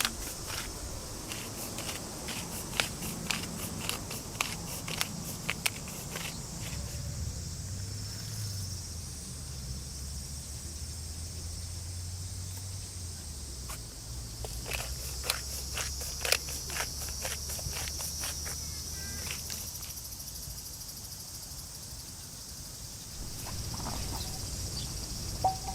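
Steady high insect drone in the background, with scattered sharp clicks and taps on top, clustered in bursts.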